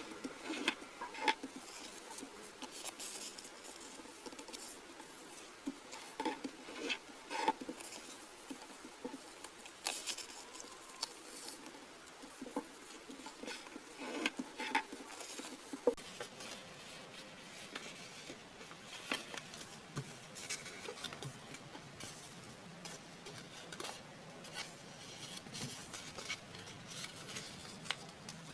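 Origami paper being handled, folded and creased by hand, with irregular soft rustles, crinkles and small taps.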